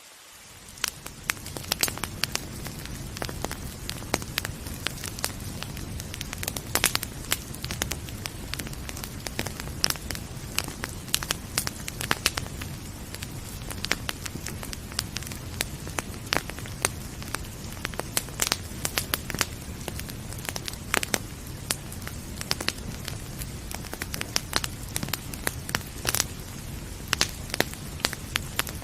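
Wood fire crackling and popping, with many sharp, irregular pops over a steady low rumble of burning; the sound fades in over the first second or so.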